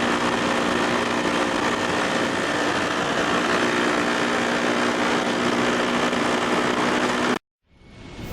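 Motorcycle engine running at a steady speed while riding, under an even rushing noise. It cuts off suddenly about seven seconds in, and music starts to fade in at the very end.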